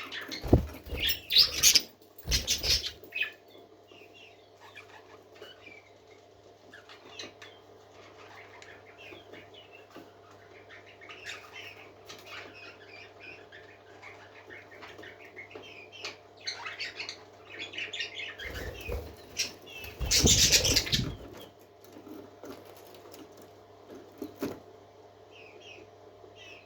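Pet parakeets flapping their wings in loud bursts, two near the start and a longer one about twenty seconds in, with faint chirping between them. A steady low hum runs underneath.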